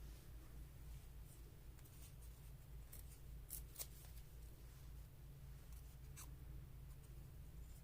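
Scissors snipping paper, a few short faint cuts spaced apart over a low steady hum.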